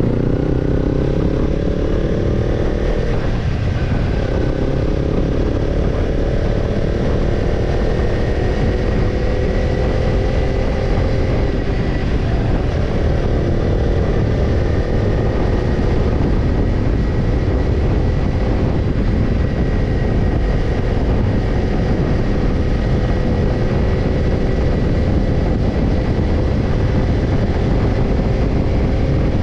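Kawasaki Ninja 250 parallel-twin engine heard through a BEET NASSERT Evolution Type II titanium slip-on muffler while riding. Revs climb for the first few seconds, there is a gear change about three and a half seconds in, and the pitch rises more slowly before holding steady at cruising speed.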